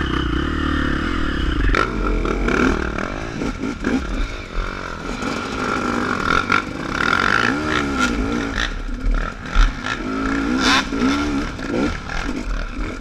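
Dirt bike engine revving up and down repeatedly under riding throttle, with scattered clattering knocks from the bike over the rough trail.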